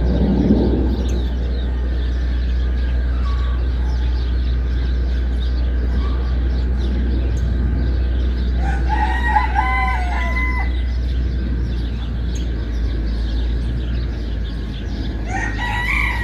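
Rooster crowing once about halfway through, with a second crow starting near the end, over a steady low hum.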